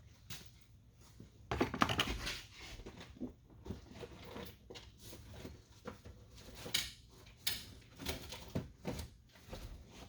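Irregular clicks, knocks and rustling from hands working plastic door-trim clips and the rubber weatherstrip on a pickup truck door, densest about one and a half to two and a half seconds in.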